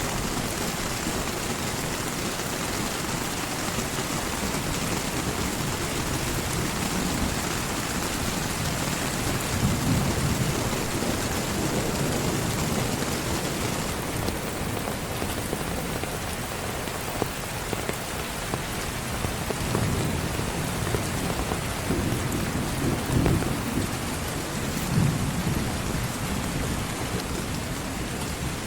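Heavy rain falling steadily, with low rumbles of thunder swelling up several times, mostly in the second half.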